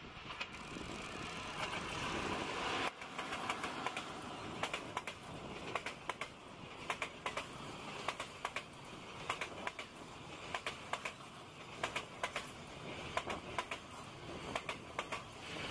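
A JR Freight container train hauled by an EF81 400-series electric locomotive passes. A rising rush stops abruptly about three seconds in, then the container wagons roll by with their wheels clacking over the rail joints in quick clusters of two or three.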